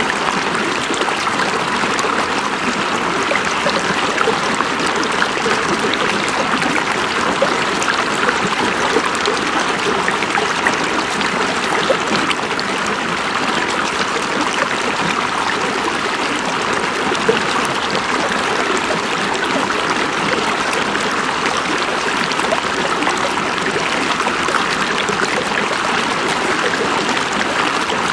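River water flowing over rocks: a steady rushing and babbling that keeps an even level throughout.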